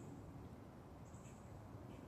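Near silence: a faint low background rumble with a few faint, brief high-pitched chirps, one at the start and another about a second in.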